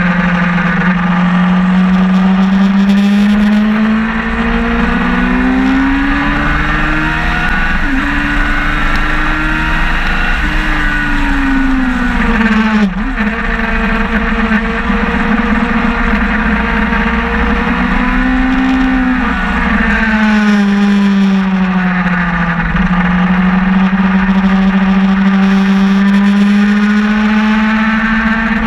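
Sportbike engine running hard at track speed, its note rising and falling repeatedly through the lap, with a sudden brief dip and click about 13 seconds in. A steady low wind rush on the microphone runs under it.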